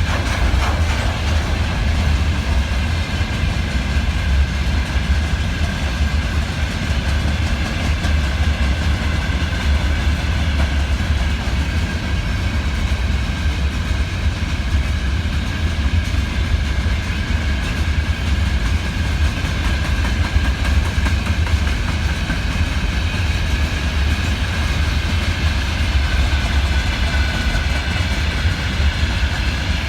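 Freight train rolling through steadily, hauled by a 2ES5K electric locomotive: a continuous low rumble with a steady high-pitched tone over it.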